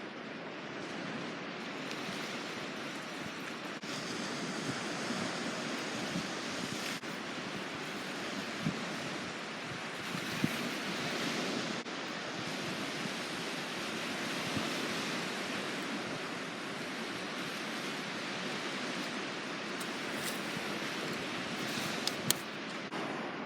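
Sea surf washing on the shore, a steady rushing wash that swells and eases, with a few sharp clicks now and then.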